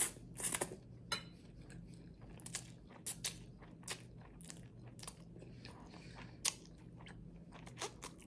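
Crunchy garlic bread being bitten and chewed close to the microphone: a string of crisp, irregular crunches.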